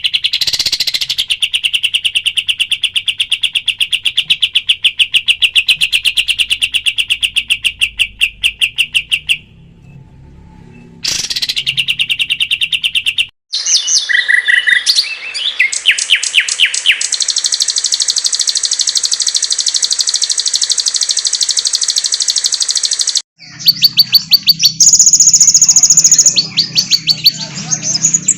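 Recorded songbird song spliced from several clips: a long run of fast repeated chirps, a brief drop and a short return, then after a sudden cut a higher, steady rapid trill, and near the end sharp high chirps over a low hum.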